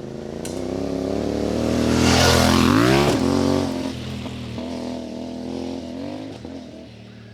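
CFMoto 450MT parallel-twin motorcycle engine under way: it grows louder and climbs sharply in revs about three seconds in, then drops to a lower, steadier note and eases off toward the end.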